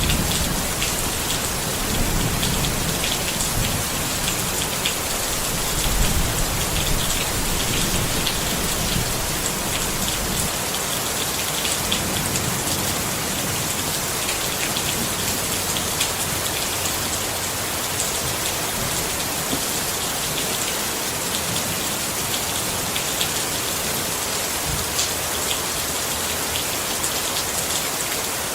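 Steady rain pattering on a tent, with many small distinct drops ticking over a constant hiss. A low rumble comes and goes in the first half, then fades.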